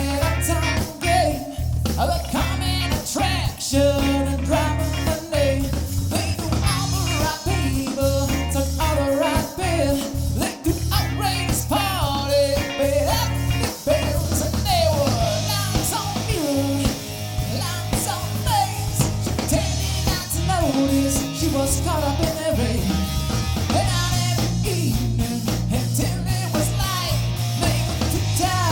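Live rock band playing a cover song: a singer over electric guitars, bass and drum kit.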